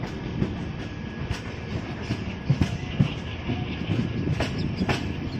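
Passenger train rolling along the track, heard from an open coach doorway: a steady rumble with irregular sharp clacks as the wheels cross rail joints.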